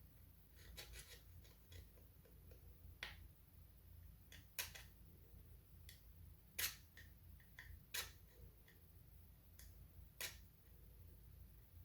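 Faint, irregular sharp clicks and taps, about a dozen at uneven spacing over a low steady hum.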